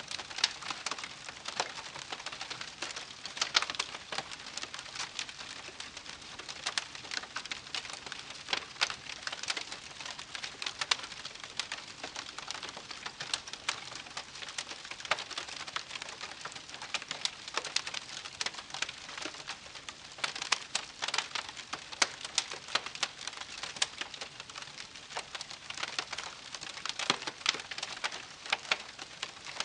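Wood campfire crackling steadily: a dense run of sharp snaps and pops over a soft hiss, with some louder pops now and then.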